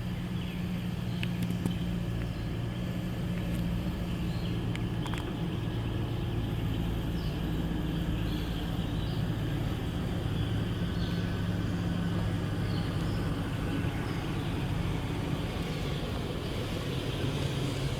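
Jet engines of a Southwest Airlines Boeing 737 passing, a steady low drone with a deep hum.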